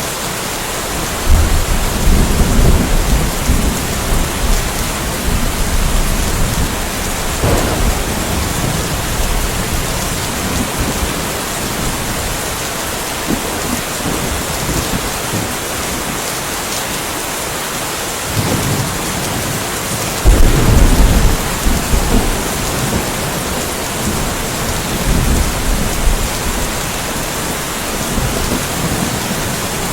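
Steady rain with rolls of distant thunder: a long low rumble builds a second or so in, and a louder one comes about two-thirds of the way through, with smaller rumbles between.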